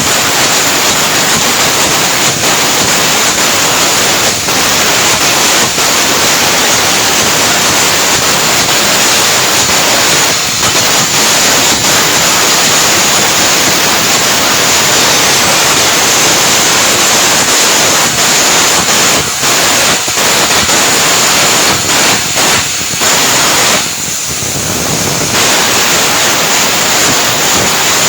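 Electric arc welding: the arc's loud, steady crackling hiss, dipping briefly several times in the second half and breaking off for a moment near the end.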